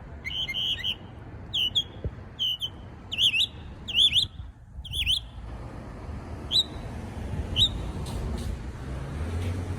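A songbird singing a run of short, clear, up-and-down chirps, about two a second, then pausing and giving two single notes a second apart.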